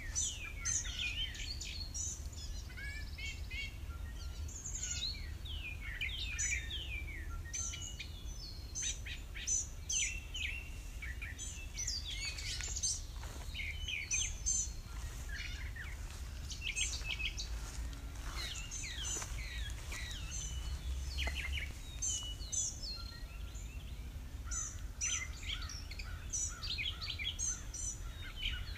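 A chorus of birds chirping, with many short, quick high calls overlapping throughout, over a steady low rumble.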